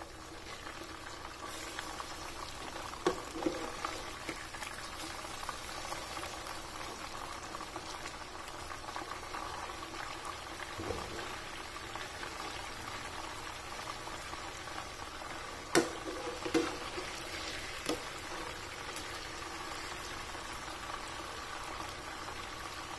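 Chicken chapli kababs shallow-frying in hot oil in a nonstick pan, a steady sizzle. A few sharp clicks of a metal slotted spatula against the pan come as the kababs are turned, the loudest about 16 seconds in.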